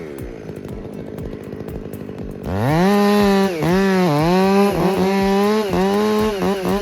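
Two-stroke chainsaw running low after a rev dies away, then opened up to full throttle about two and a half seconds in and held there. Its pitch dips briefly several times as the chain loads up in the wood.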